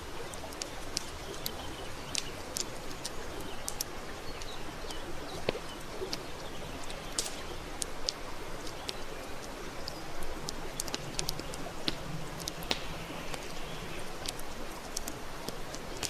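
Wood campfire burning, with frequent irregular sharp crackles and pops over a steady hiss.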